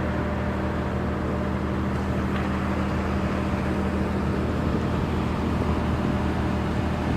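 Steady, unchanging machinery hum with a hiss over it, as at a truck wash: a motor running at constant speed with spray noise.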